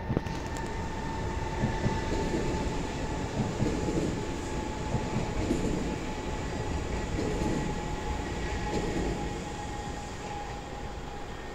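Train running on rails: a dense rush of wheel and running noise with a steady high whine held over it, easing slightly near the end.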